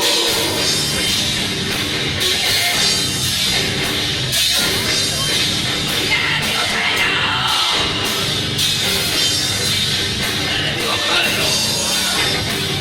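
Loud live heavy rock band playing: distorted guitars, bass and pounding drums, with shouted vocals.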